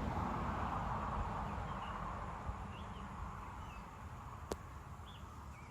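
A small bird gives several short, faint chirps over a steady background hiss that slowly fades, with one sharp click about four and a half seconds in.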